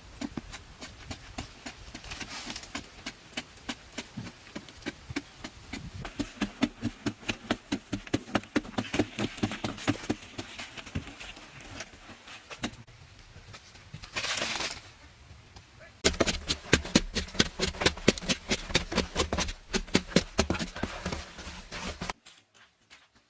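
Rapid, repeated knocks and scrapes of hand-tool work, several strokes a second. There is a brief rush of noise about fourteen seconds in, and the sound cuts off suddenly near the end.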